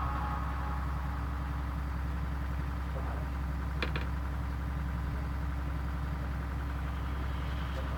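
Steady low hum with faint background hiss in a pause of the recitation, with two faint clicks near the middle.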